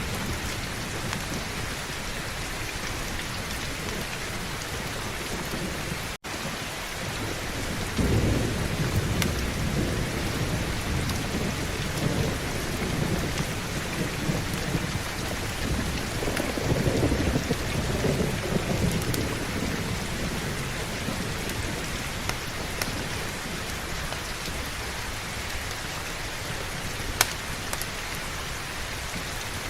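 Steady heavy rain with thunder rumbling low twice, swelling up about eight seconds in and again around sixteen seconds. The sound cuts out for an instant about six seconds in, and a sharp click stands out near the end.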